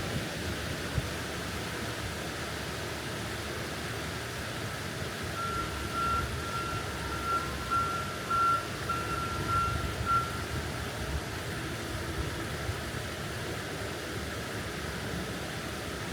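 Steady outdoor rumble and hiss, with a run of short, evenly spaced high beeps for about five seconds in the middle.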